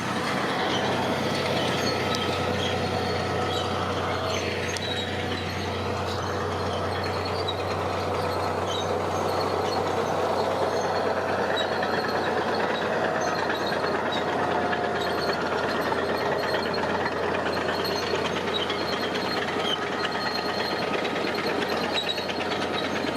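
Heavy diesel construction machinery running steadily under load with a constant low engine hum; the pitch dips and comes back up briefly about five seconds in.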